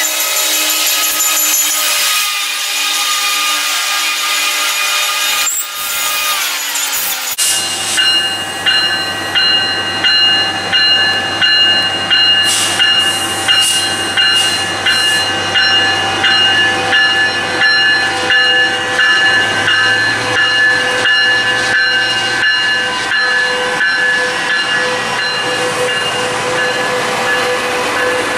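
A train rolling past close by: steel wheels on the rails with a hissing rush and steady high-pitched squealing tones. From about a quarter of the way in there is a regular beat of about one a second as wheel sets pass over the rail.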